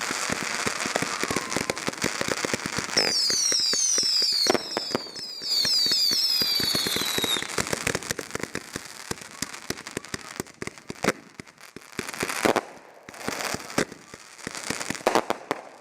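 Consumer fireworks going off several at once: dense crackling and popping, with a cluster of shrill falling whistles from about three to seven seconds in. After that the crackle thins to scattered pops.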